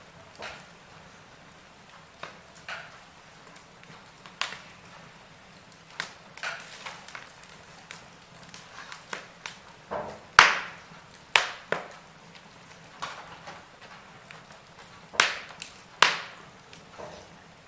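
Wood fire in a fireplace crackling, with irregular sharp pops every second or so; the loudest pop comes about ten seconds in.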